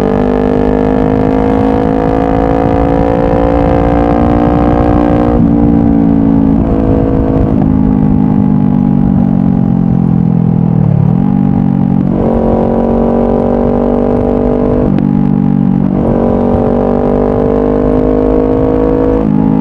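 Honda CBR500R's parallel-twin engine through a Yoshimura full exhaust, under way. The revs climb steadily, drop sharply at several gear changes, and fall then pick up again about halfway through.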